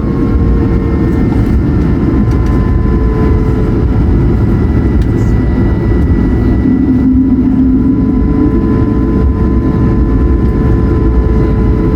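Airbus A220-100's Pratt & Whitney PW1500G geared turbofan engines running steadily at low power while taxiing, heard from inside the cabin: a constant low rumble with steady whining tones above it.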